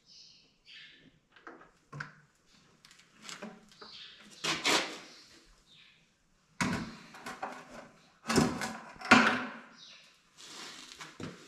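Irregular clunks, knocks and rattles, like a door or panel being worked and things handled. The loudest come about four and a half seconds in, again near the middle, and twice close together a little later.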